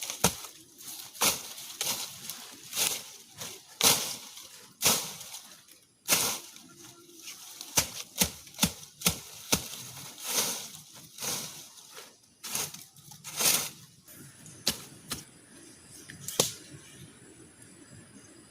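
A series of irregular sharp clicks and knocks, one or two a second, that stop about three-quarters of the way through and leave a faint steady hiss.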